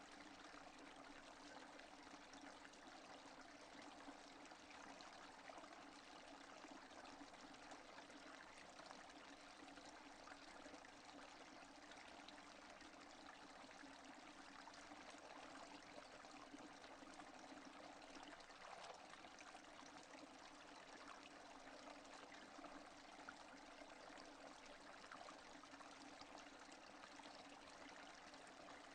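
Faint, steady rain falling without thunder: an even hiss of many small drops that does not let up.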